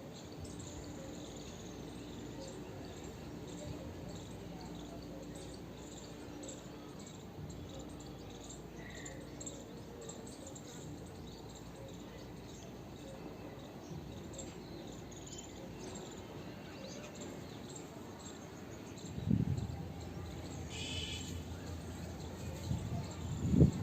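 Munias chirping with many short, high tweets over a faint steady hum, with a few loud low thumps near the end.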